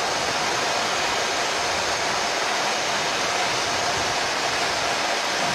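Steady rushing of airflow and engine noise on a Boeing 737 MAX flight deck on short final approach, with a faint steady tone underneath.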